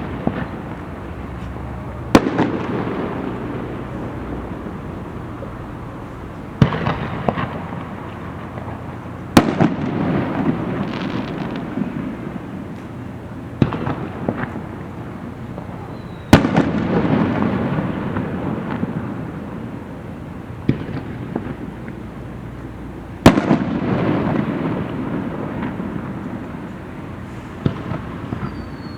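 Aerial fireworks shells bursting in a display, about eight sharp bangs spaced a few seconds apart. Each of the louder bangs is followed by a lingering rumble and crackle.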